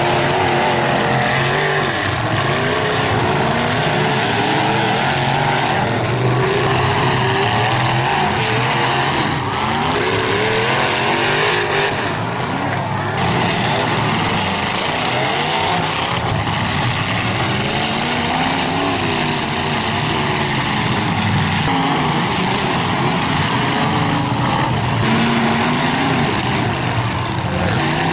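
Several demolition derby cars' engines running and revving together, their pitch rising and falling over and over under a constant noisy wash.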